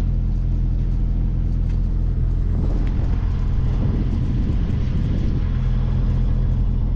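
Sailing yacht's engine running steadily at motoring revs, a low, even drone with a hiss of wind and water over it.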